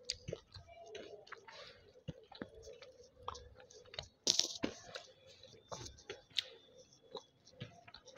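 Close-miked chewing of hard, crunchy banslochan (tabasheer, crystalline bamboo silica): an irregular string of sharp crunches and mouth clicks, the loudest crunch about four seconds in.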